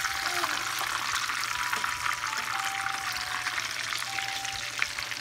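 Breaded chicken breasts shallow-frying in hot oil in a frying pan, a steady crackling sizzle with small pops, while a fork turns the pieces. A faint simple tune of single held notes plays along.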